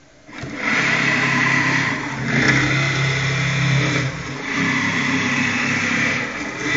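CNC-converted Optimum BF20L benchtop milling machine starting up about a third of a second in and then running steadily with a hum and a higher whine, its sound dipping and changing briefly every two seconds or so as the machine works.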